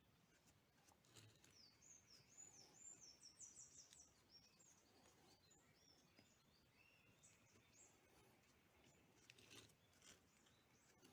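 Near silence, with faint high bird chirps in quick series for a few seconds, then a few scattered chirps later.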